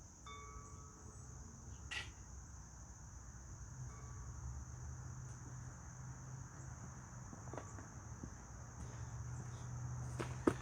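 Steady high-pitched chorus of crickets, with a faint low hum underneath and a few small knocks; a sharp click comes near the end.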